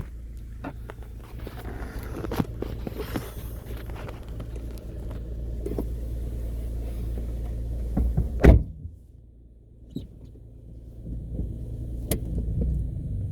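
Car being driven on a test drive after a loose engine-mount bushing was refitted, with a steady low engine and road rumble. One loud thump comes about eight and a half seconds in, followed by a brief quieter stretch before the rumble returns.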